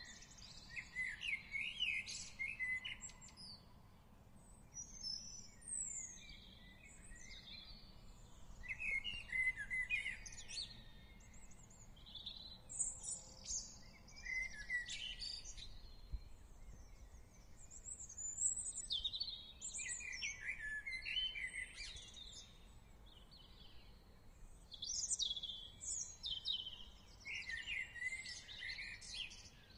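Songbirds singing outdoors: clusters of quick, high chirps and trills every few seconds, over faint steady background noise.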